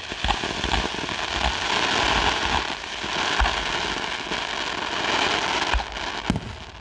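Fireworks crackling, a dense hiss of many small pops with a few low thumps mixed in. The crackle thins out near the end into a few separate sharp cracks.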